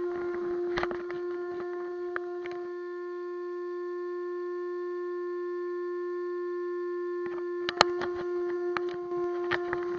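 Steady high electric whine from an ECX Amp MT RC truck's drive, held at one pitch, with scattered crackling clicks and knocks for the first few seconds and again from about seven seconds in.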